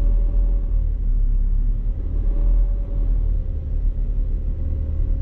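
Supercharged Mazda MX-5 engine running steadily at idle while the car is stationary, heard from inside the cabin as a low rumble.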